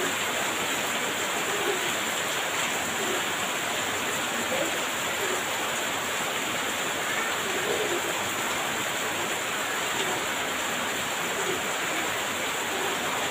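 Heavy rain falling in a steady downpour, an even hiss with no thunder in this stretch.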